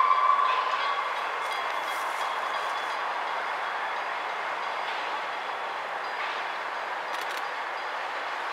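Diesel-hauled passenger train running along the track, a steady even rumble of engine and wheels on rail. The last of a locomotive horn note dies away in the first second.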